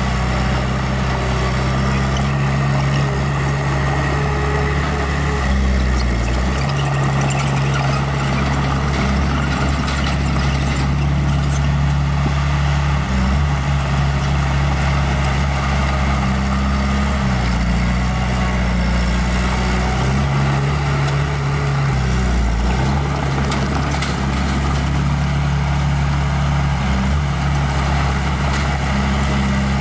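Small bulldozer's diesel engine running steadily under work, its low note shifting up and down several times as the load changes.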